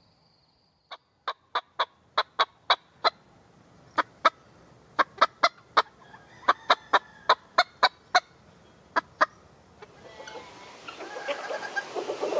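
A galliform bird giving a series of short, sharp single calls, about twenty of them, irregularly spaced. About ten seconds in, a denser jumble of calls builds up.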